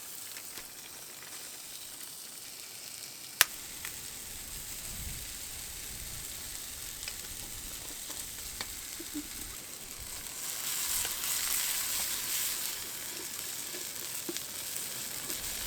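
Food sizzling in a cooking pot set on a campfire, a steady hiss with a single sharp click about three and a half seconds in. The sizzling grows louder for a few seconds past the ten-second mark.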